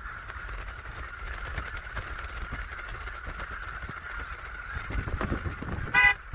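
A huge flock of snow geese and Canada geese calling all at once, a steady distant chorus of honking over a low rumble. About six seconds in, a single short, loud honk.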